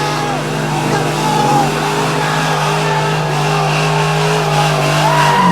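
Car engine held at steady high revs while the tyres spin and squeal in a burnout or drift. The revs drop sharply right at the end.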